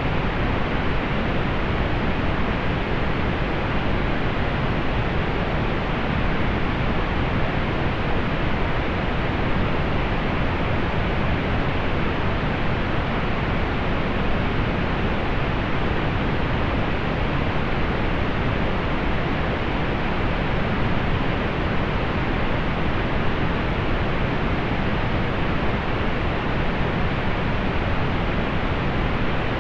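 Steady pink noise: an even, unchanging hiss weighted toward the low end and rolled off in the highs.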